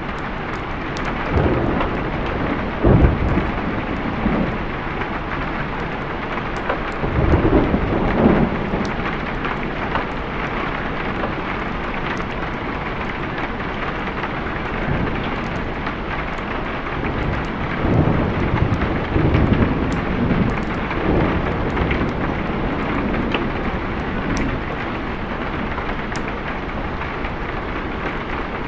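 Steady heavy rain with rolls of thunder, a short one about three seconds in, a longer one around seven to eight seconds, and another stretch of rumbling from about eighteen to twenty-one seconds.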